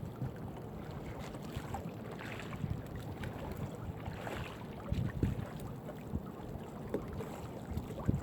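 Wind buffeting the microphone on a small fishing boat, a steady low rumble, with scattered knocks and clicks from work aboard as the crab net is hauled in.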